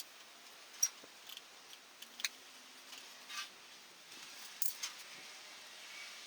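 Sparse, light metallic clicks and clinks of tools or small parts being handled, the loudest just under a second in and again about two-thirds of the way through.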